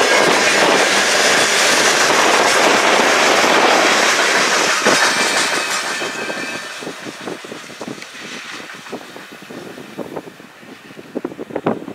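Freight train cars rolling past with a steady rumble. About halfway through the sound starts to fade as the end of the train moves off, leaving separate wheel clacks over the rail joints that grow sparser and fainter.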